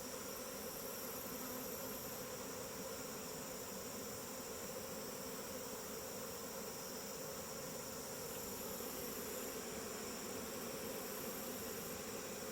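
Steady, soothing hum of a honeybee swarm buzzing at a hive entrance as the bees crowd into their new hive box.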